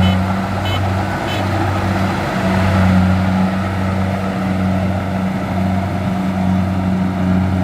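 Kubota DC-70 rice combine harvester running steadily, its diesel engine holding an even, unchanging hum over the noise of its machinery.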